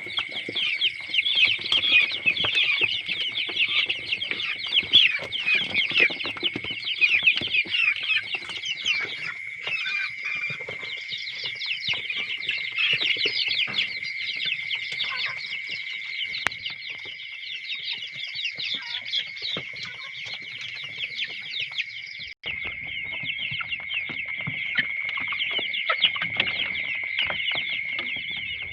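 A flock of desi chickens calling all at once: a dense, continuous chatter of short high calls, with a brief break about three-quarters of the way through.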